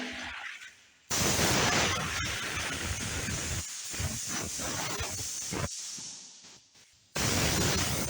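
Loud, even hissing noise. It starts suddenly about a second in, fades out a little before six seconds, and starts suddenly again near the end.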